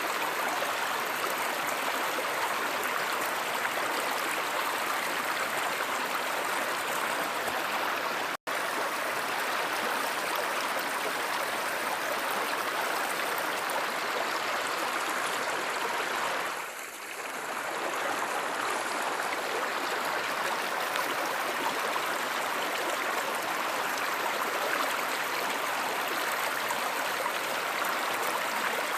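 A stream or river flowing steadily, an even rush of water. The sound cuts out for an instant about eight seconds in, and briefly dips and swells back a little past halfway.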